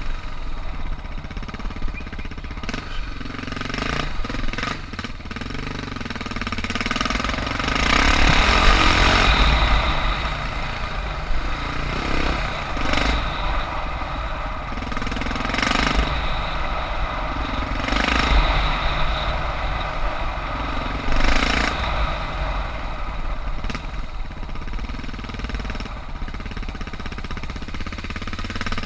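Suzuki DR650's single-cylinder four-stroke engine chugging at low revs, rising and falling with the throttle. It is loudest about eight seconds in, with shorter swells later on.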